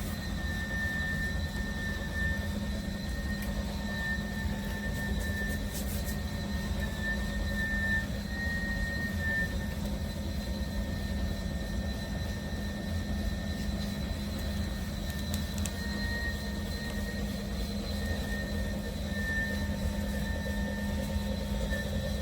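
Cordless dual-motor electric spin mop running steadily: a constant motor hum with a high, slightly wavering whine over it.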